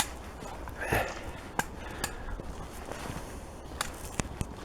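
Footsteps on a dry woodland path: irregular sharp clicks and crackles, such as twigs snapping underfoot, over a faint outdoor background.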